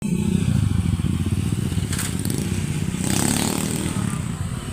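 A motor vehicle engine running close by with a dense, fast-pulsing low rumble, with a brief clatter about two seconds in.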